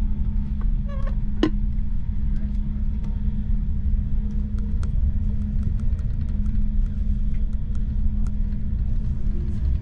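Deutsche Bahn IC2 Twindexx double-deck intercity carriage running, heard from inside: a steady low rumble with a constant hum, and light clicks and ticks from about four seconds in.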